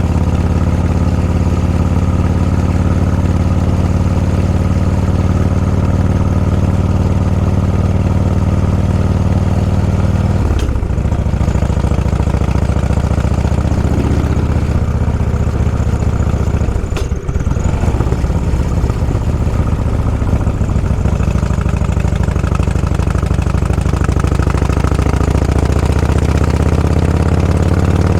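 Motorcycle engine running steadily under the rider. The revs drop briefly and pick up again twice, about ten and seventeen seconds in, as the throttle is eased and reopened.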